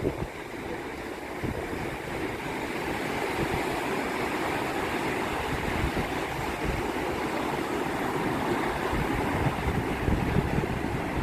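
Mediterranean surf: waves breaking and washing in as a steady rushing noise that swells a little over the first few seconds, with wind buffeting the microphone.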